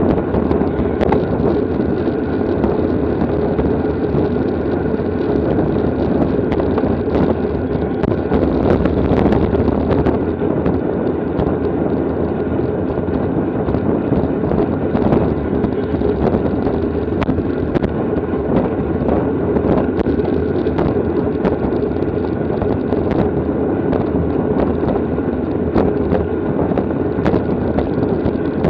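Steady rush of wind over the microphone of a camera riding along with a bicycle in a race, with scattered faint clicks.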